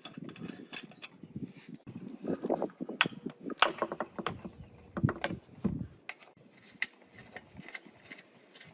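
Irregular clicks, knocks and dull thuds of hand tools and metal parts being worked on the concrete cutter, with two sharp, loud clicks near the middle.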